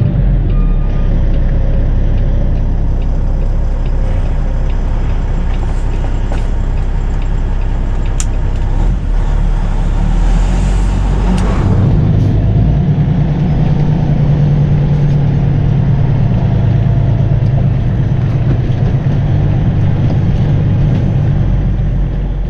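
Peterbilt 579 semi truck's diesel engine running steadily as the truck is driven slowly into a lot, with a brief hiss about halfway through.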